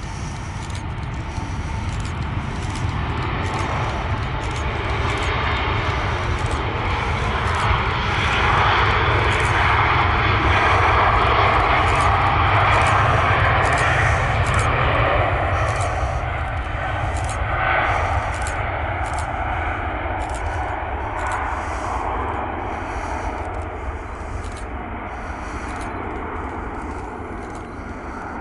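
Airbus A380's four Engine Alliance GP7270 turbofans at takeoff power, a loud jet roar that swells as the aircraft passes, is loudest around ten to fifteen seconds in, then slowly fades as it climbs away.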